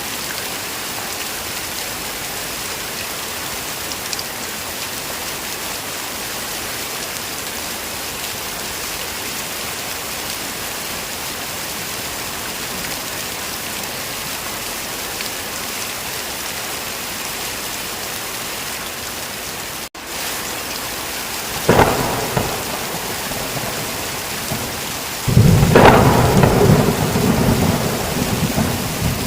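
Steady heavy rain. About two-thirds of the way in, after a momentary break in the sound, a sharp crack of thunder is followed a few seconds later by a long, loud rolling rumble of thunder.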